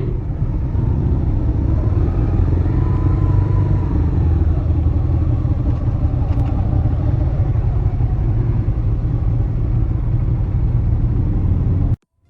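Motorcycle engine running steadily, a low rumble that holds at much the same pitch, cut off abruptly near the end.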